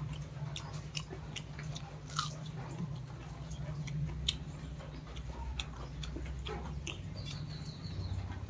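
A person chewing a mouthful of chicken biryani with irregular wet mouth clicks and smacks, over a low steady hum.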